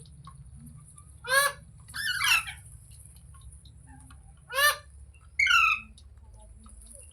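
Green parrot giving four harsh, screechy calls: two about a second and a half in, a short one past the middle, then a quick falling run of notes. A steady faint high-pitched hiss runs underneath.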